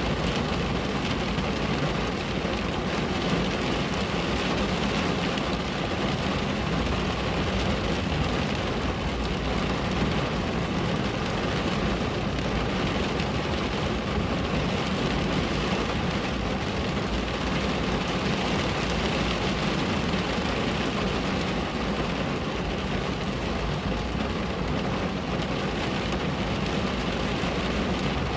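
Steady, even rain on a window, with no single drops, thunder claps or changes standing out.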